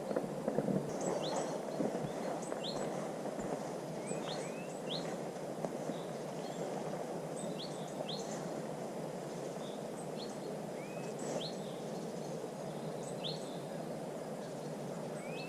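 Small birds singing: short rising chirps and thin high notes, repeated every second or so, over a steady low rushing background.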